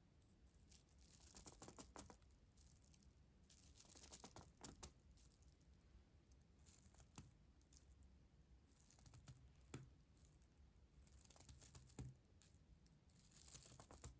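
Soft, close-up ASMR trigger sounds: light crinkling and scratching with small taps and clicks, coming in short clusters every couple of seconds.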